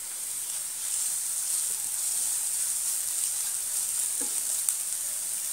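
Grated potato and chopped onion sizzling in hot oil in a nonstick frying pan, a steady hiss, as a spatula stirs them together.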